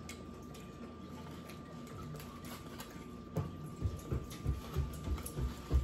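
Close-up mouth sounds of a person chewing a mouthful of taco. It starts with a few small clicks and wet mouth noises, then a little past halfway settles into rhythmic chewing, about three chews a second.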